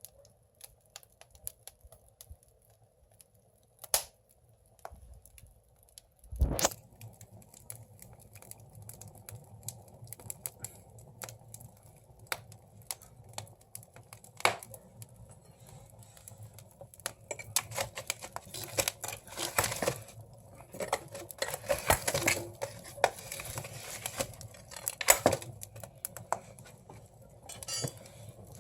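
Firewood burning in an agungi, a traditional Korean wood-fired furnace: irregular sharp crackles and pops, growing denser in the second half, with one dull thump about six seconds in.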